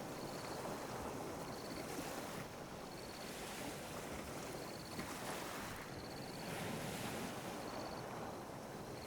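Ocean waves lapping and washing on a beach: a continuous rush of surf that swells and eases every few seconds.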